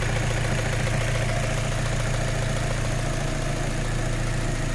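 Opel Astra H's Z16XEP 1.6-litre four-cylinder petrol engine idling steadily with a rapid knocking. The owner takes the knock not for a mechanical metal-on-metal knock but for a noise from the intake manifold, where oil from the crankcase ventilation hoses collects.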